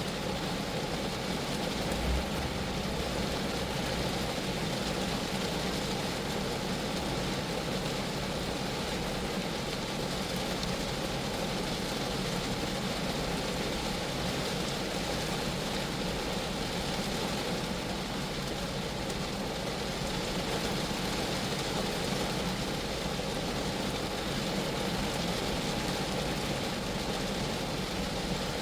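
Rain falling steadily on a Geo Metro, an even hiss of drops on the car, with one brief low bump about two seconds in.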